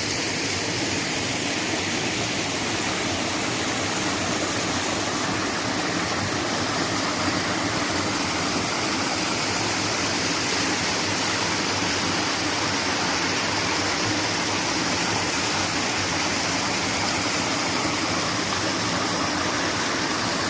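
Waterfall rushing steadily: a loud, unbroken hiss of falling water.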